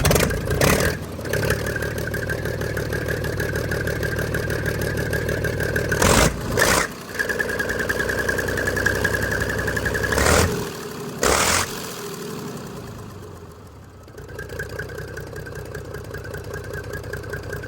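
Rebuilt Komatsu D155 six-cylinder diesel engine running on test, with several short louder bursts along the way. Its loudness sinks for a couple of seconds past the middle, then picks up again.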